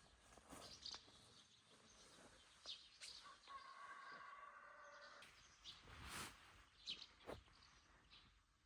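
Faint rural morning ambience: scattered bird chirps and a few small knocks, with a drawn-out call in the middle lasting a couple of seconds.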